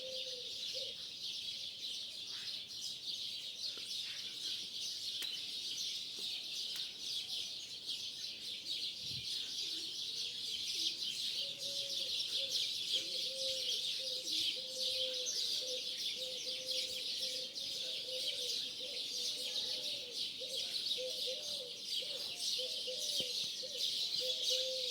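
A large flock of starlings chattering and screeching in a dense, unbroken high chorus. A lower, warbling bird call joins in about a third of the way through and carries on.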